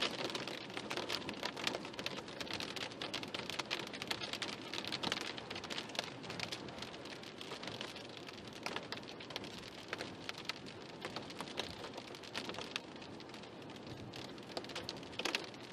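Heavy rain pattering on a car, a dense crackle of drops hitting the body and windshield. It eases a little after the first few seconds.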